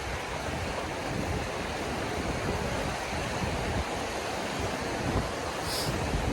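Small waterfalls rushing steadily, with wind rumbling on the microphone. A brief high-pitched sound near the end.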